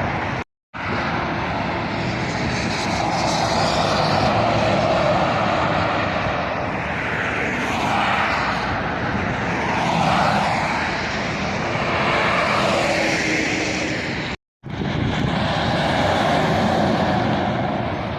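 Road traffic passing close by: a steady rush of engine and tyre noise that swells and fades as vehicles go past. It cuts out completely twice, very briefly, about half a second in and near the end.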